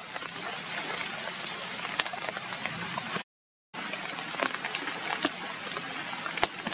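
Steady rain falling, with single drops striking sharply close by about once a second. The sound cuts out entirely for about half a second a little after three seconds in.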